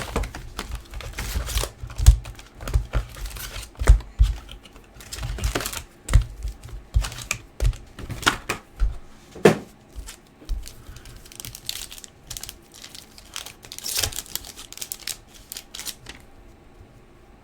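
Hockey card packs being torn open and the cards handled: crinkling and tearing of foil wrappers with many irregular clicks and taps, busiest in the first half and thinning out towards the end.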